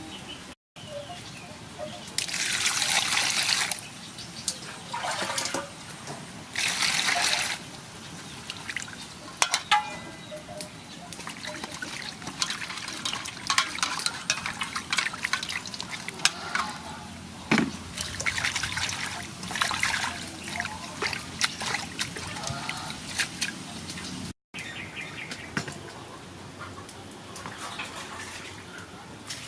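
Tap water running in two short bursts, then splashing and small knocks as tomatoes and cilantro are rinsed and handled in a sink.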